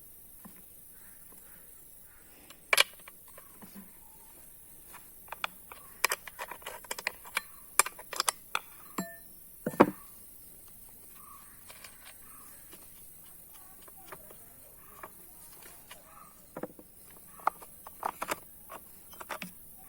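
Scattered metallic clicks, clinks and light scrapes as the chain cover of a Stihl MS460 chainsaw is unfastened and taken off, with two sharper knocks about three and ten seconds in.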